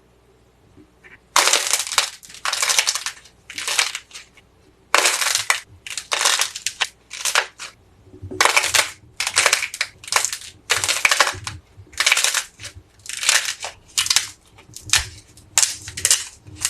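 Crisp crackling and crunching as something is crushed or squeezed, in about twenty short separate bursts roughly one or two a second, starting about a second in.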